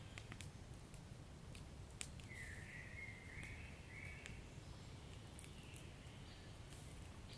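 Wood fire crackling faintly, with scattered sharp pops over a low steady rumble. From about two seconds in there is a thin, wavering high whistle lasting a couple of seconds.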